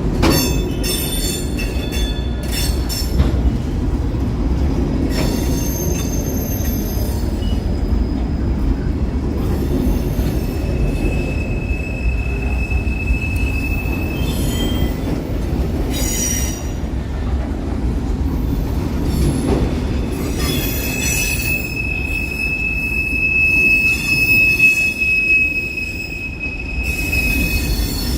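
Slow freight train's cars rolling past with a steady low rumble and occasional clanks. A high steel-wheel squeal rings out for a few seconds about eleven seconds in, and again for longer from about twenty-one seconds until near the end.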